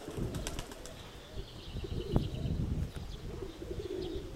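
Domestic pigeons cooing, a repeated warbling coo, over low rumbling wind noise on the microphone in a strong wind.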